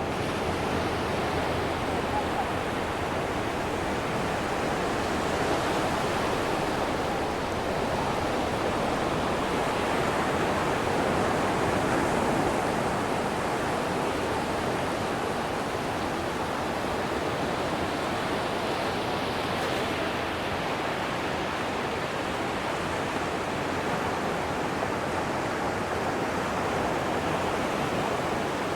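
Ocean surf breaking and washing onto a sandy beach, a steady dense wash of waves that swells a little about halfway through.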